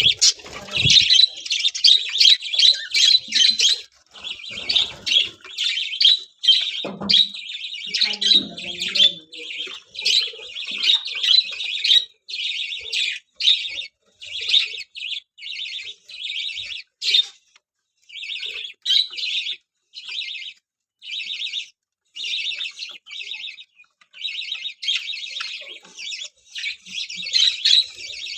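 A colony of budgerigars chattering with fast, high chirps. The sound is dense and unbroken at first, then from about halfway through it thins into separate bursts of chatter with short pauses between them.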